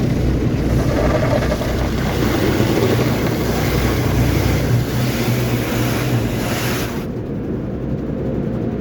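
Automatic car wash running over the car, heard from inside the cabin: a steady rush of water spray and washing machinery over a low hum, whose hissing top end cuts off about seven seconds in.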